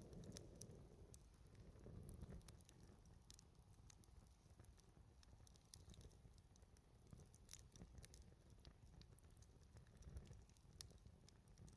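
Faint crackling of a wood fire: irregular small pops and snaps, several a second, over a low rumble.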